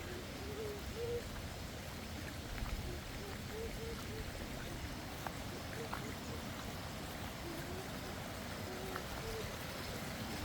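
Short, low, hooting or cooing bird calls repeated at irregular intervals over a steady rushing noise like running water.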